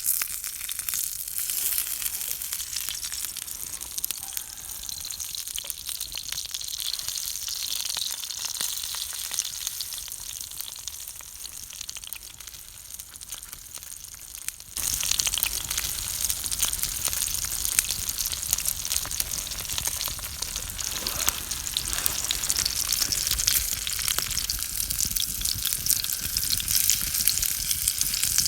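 Meatballs frying in a pan, a steady crackling sizzle that turns abruptly louder about halfway through.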